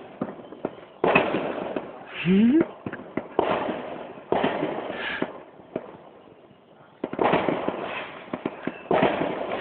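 A fireworks display: about five loud bangs a second or two apart, each dying away in a rolling echo with scattered crackles between them.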